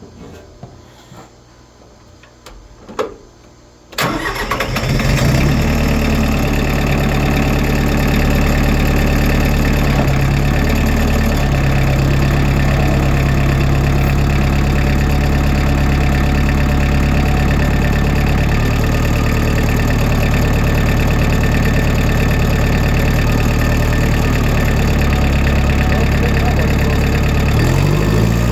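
Tractor engine starting up about four seconds in, after a few faint clicks, then running steadily. Its pitch shifts near the end as the revs change.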